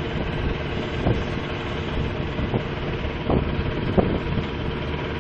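Heavy vehicle engine running steadily with wind buffeting the microphone, and a few short knocks.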